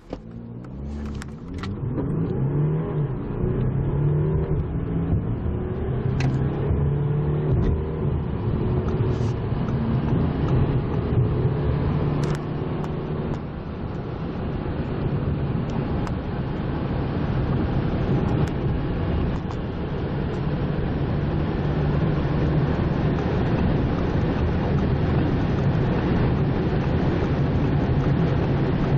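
Audi A6 3.0 TDI V6 turbodiesel accelerating hard from a standstill. The engine note climbs and drops back at each upshift over the first dozen seconds or so, then settles into a steady drone under growing wind and road noise as speed builds.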